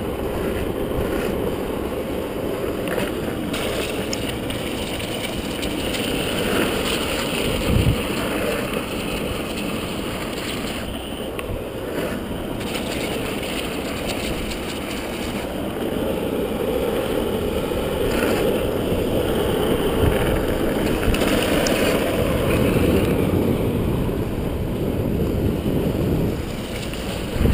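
Steady rush of wind on the microphone and water noise during a banana boat ride towed behind a motorboat, with a few brief louder knocks.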